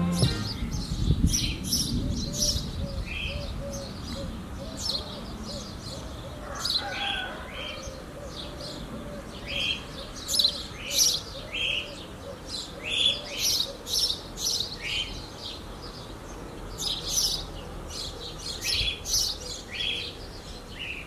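Small birds chirping outdoors: short, high chirps repeating irregularly throughout, over a faint wavering lower call. A low rumble sounds in the first couple of seconds.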